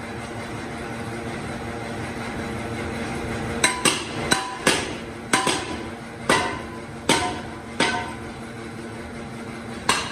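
A steady machine hum, then from about a third of the way in about nine hammer blows on steel, irregularly spaced, each one ringing briefly.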